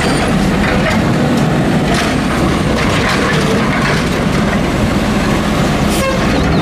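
Automated side-loader garbage truck idling with its diesel engine running while the hydraulic arm lifts a wheeled trash cart, tips it into the hopper and sets it back down, with several sharp knocks and clatter from the cart and the emptying trash.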